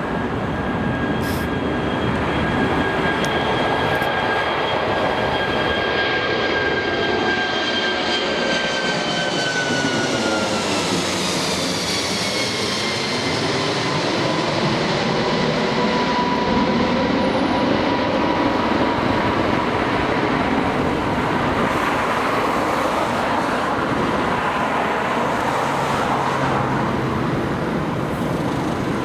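Airbus A340 four-engine jet airliner passing close by: a steady jet roar with a high engine whine that falls in pitch about ten seconds in as the aircraft goes past, the roar then running on.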